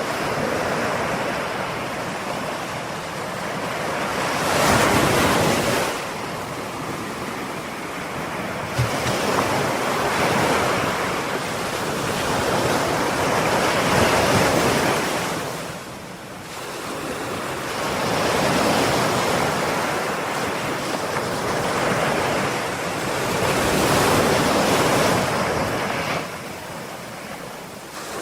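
Ocean waves breaking and washing up the shore, the surf swelling and easing off in waves every four to six seconds.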